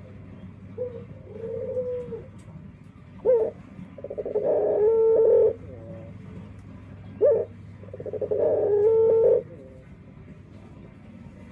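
A burung puter (Barbary dove) cooing: three coos, the last two each preceded by a short sharp note. Its voice is unusual enough that the owner wonders whether it is unique or a defect.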